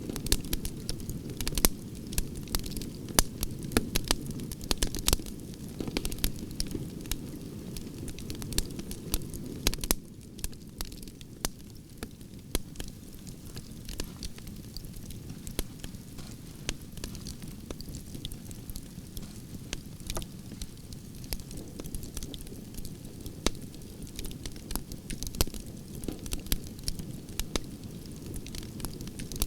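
Wood fire of burning branches crackling, with frequent sharp pops and snaps over a steady low rumble of flames.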